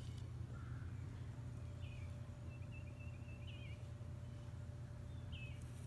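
Faint small-bird chirps: a few short, wavering high calls, with a longer twittering run in the middle, over a steady low background rumble.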